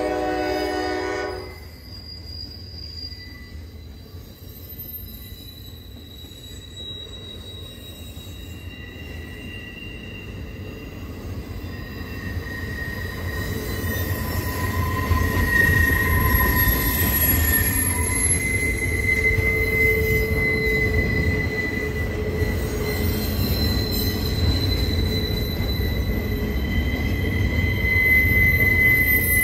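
The last second or so of a blast from the Norfolk Southern D9-44CW's Nathan K5LA horn, then a maintenance-of-way train's boxcar and loaded flatcars rolling past on curved track. Their wheels give a low rumble and a steady high-pitched squeal that grows louder from about halfway through.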